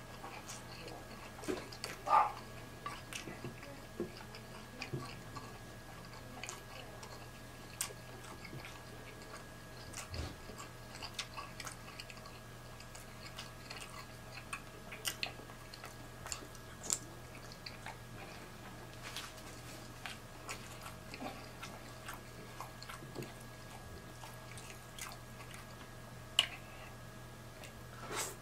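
A person chewing and biting into boiled shrimp and other seafood-boil food close to the microphone: scattered short wet mouth clicks over a faint steady hum.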